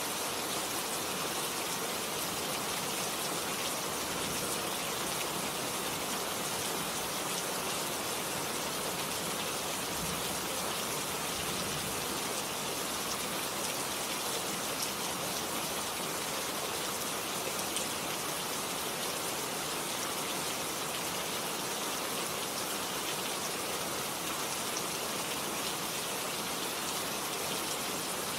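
Steady rain falling on a garden, an even hiss of drops that holds level throughout with no thunder.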